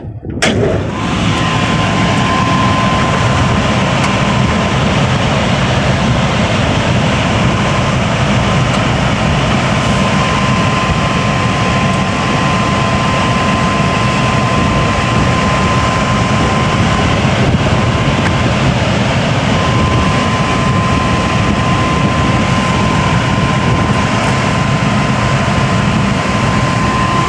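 Rooftop package air-conditioning unit running with first and second stage jumped on: compressors, indoor blower and condenser fans making a loud, steady machine noise with a thin steady whine above it. The sound comes in abruptly at the start.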